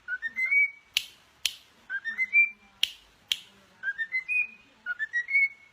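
Whistling: a short phrase of a few notes stepping upward and holding the top note, repeated four times at an even pace, with sharp snap-like clicks between the phrases.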